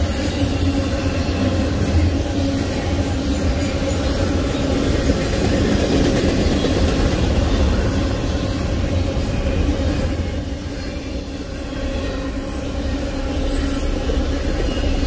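Double-stack intermodal container train rolling past steadily: the steel wheels of the loaded well cars running on the rails. The sound eases briefly about ten seconds in, then builds again.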